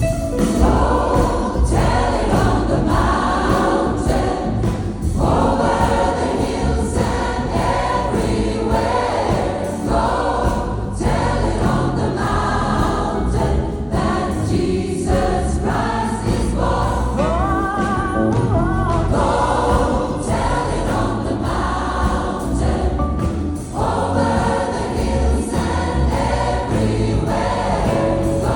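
Gospel choir singing in full voice over a band, with a strong bass line underneath.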